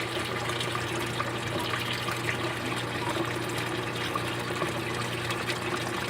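Water running and trickling steadily as it flows down from a water-hyacinth filter into a fish tank, with a steady low hum underneath.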